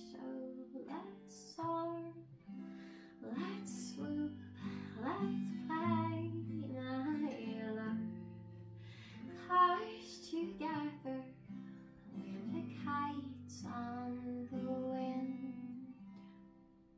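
Plucked guitar music with held notes, fading out near the end.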